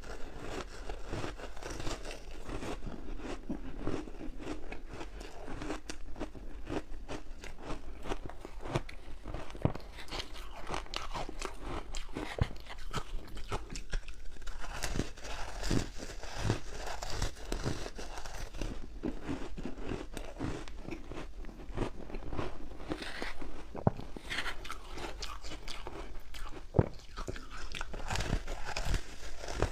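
Crunchy ice dusted with matcha powder being bitten and chewed, giving dense, irregular crunching throughout.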